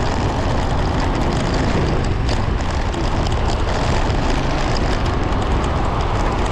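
Steady rush of wind over the microphone mixed with the running noise of a motorcycle on the move, constant throughout.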